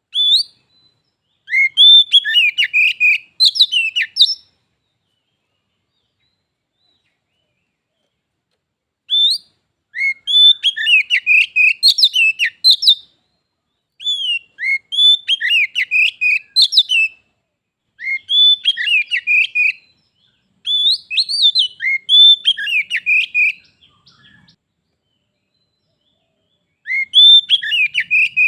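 Oriental magpie-robin singing: bouts of loud, varied whistled phrases with rising and falling notes, about six bouts separated by short pauses, with a longer silence after the first.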